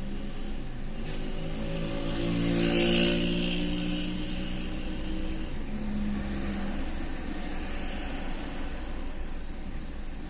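A car engine running with road noise, swelling to its loudest about three seconds in, then settling back to a steady rumble.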